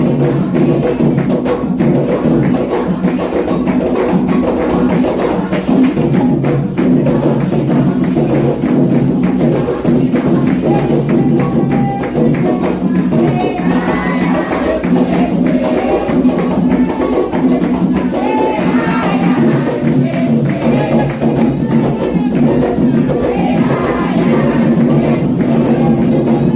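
Candomblé ritual percussion: atabaque hand drums and a struck bell keeping a steady, driving dance rhythm for Oxossi, with group chanting joining about halfway through.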